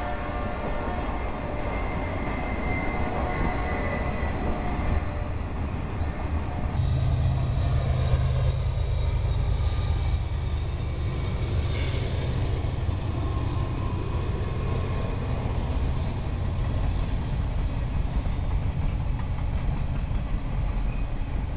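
Freight train passing close by: cars rolling over the rails. After a sudden cut, a set of diesel locomotives goes past with a steady low engine hum, followed by hopper cars.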